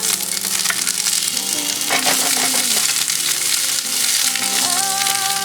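Food sizzling and spitting in a hot pan. The sizzle starts abruptly and stays loud and even, with music playing faintly underneath.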